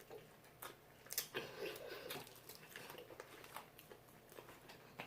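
Faint eating sounds: scattered soft crunches and clicks of chewing and biting fried chicken wings.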